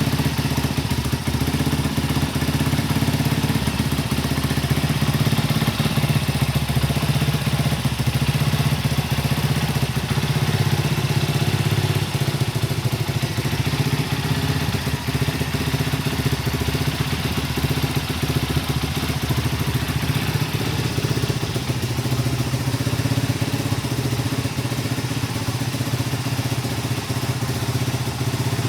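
Honda FTR223's 223 cc air-cooled single-cylinder engine idling steadily through a Supertrapp aftermarket muffler.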